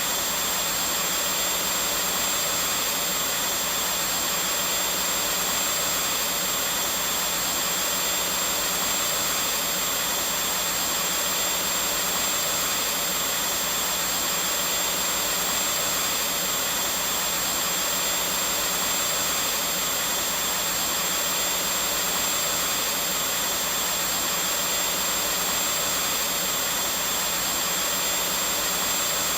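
Vacuum cleaner running steadily, an unchanging hiss and whine with a high steady tone above it.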